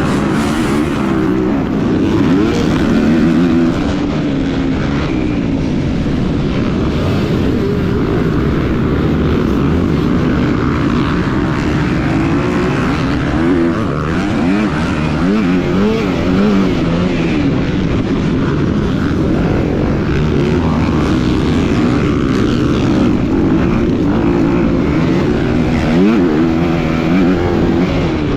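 250-class motocross bike engines running hard, the pitch climbing and dropping again and again as the throttle is worked and gears change, over a steady noise wash.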